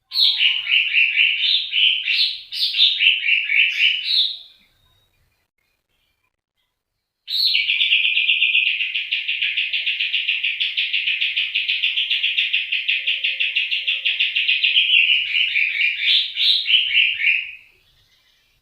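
Songbird singing in a masteran song-training recording: a burst of rapid, falling notes, a pause of about three seconds, then one long, fast, even trill of about ten seconds that breaks into falling notes near the end.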